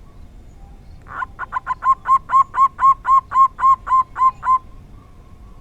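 Zebra dove (perkutut) cooing a quick series of about thirteen evenly spaced notes, roughly four a second, starting about a second in and stopping short of the end.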